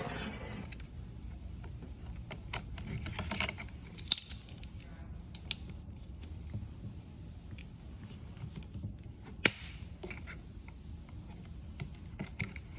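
Small clicks and taps of hands and a tool working a shifter's tendon and line back into place, with sharper clicks about four seconds in, about five and a half seconds in, and about nine and a half seconds in.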